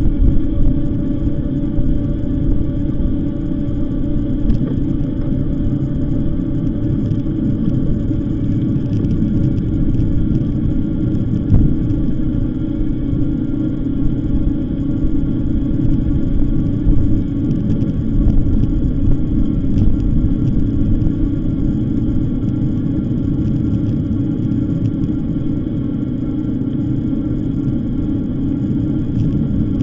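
Steady low rumble of wind buffeting the microphone mixed with tyre and road noise from a moving e-bike, with faint ticks and rattles scattered through it.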